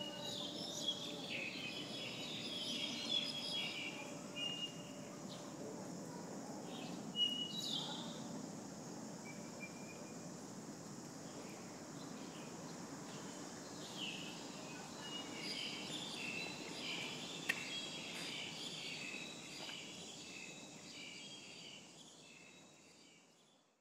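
Outdoor ambience of small birds chirping and twittering over a steady low rumble and a steady high hiss. It fades out over the last few seconds.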